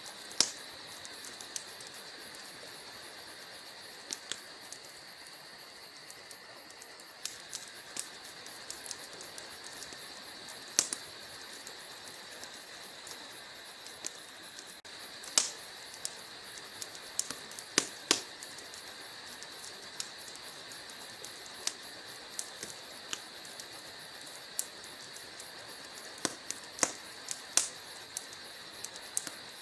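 Wood fire burning in a fireplace, crackling: a steady hiss with irregular sharp snaps and pops from the burning logs, a few of them much louder than the rest.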